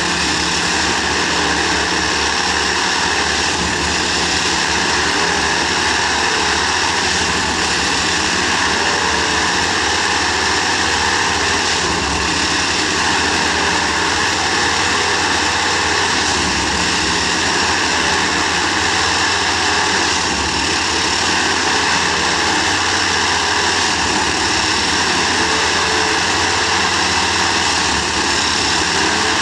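Railway ballast tamping machine at work, its engine and tamping gear running in a steady, loud mechanical drone with no breaks.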